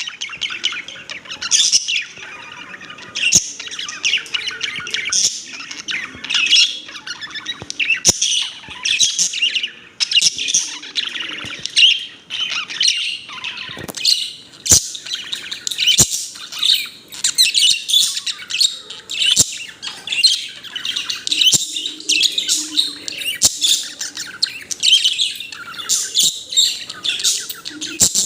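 Pet budgerigar chirping and warbling continuously: a rapid, chattering stream of high chirps, with a few sharp clicks scattered through.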